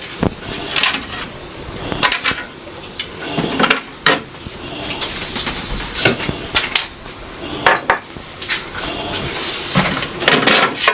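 Jars and food containers clinking and knocking together as they are taken out of a refrigerator and set down, a string of irregular sharp knocks and rattles.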